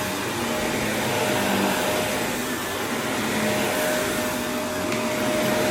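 Vacuum cleaner running steadily on an area rug, with a steady motor whine over its rushing air noise.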